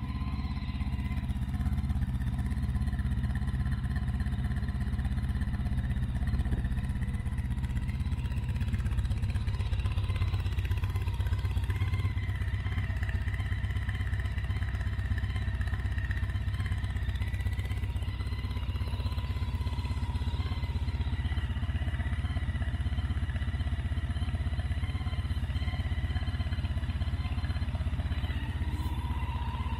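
2005 Honda ST1300's V4 engine idling steadily, warmed up, through cut-down Ducati mufflers.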